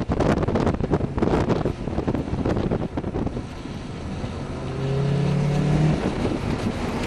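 1997 Honda Prelude's four-cylinder engine heard from inside the cabin during a hard autocross run, with wind buffeting the microphone. About halfway through, the engine note climbs steadily as the car accelerates.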